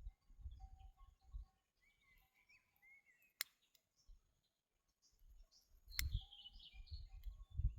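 Small birds chirping in short calls. Low rumbles and thumps come and go, with two sharp clicks, one about a third of the way in and one a little past the middle.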